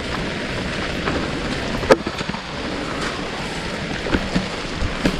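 Steady rain falling, a constant hiss with scattered drop ticks and one sharper click about two seconds in.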